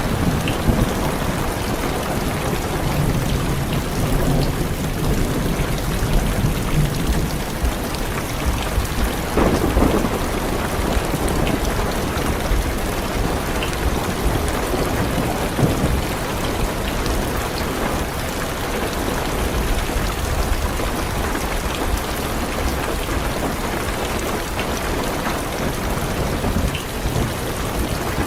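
Heavy rain beating steadily on a car's roof and windows, with low rolling thunder underneath that is heaviest in the first several seconds.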